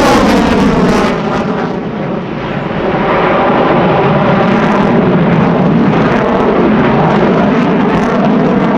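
Loud jet noise from a twin-engine F-15C Eagle fighter passing low, with a falling sweep in pitch as it goes by. The sound dips briefly about two seconds in, then stays loud.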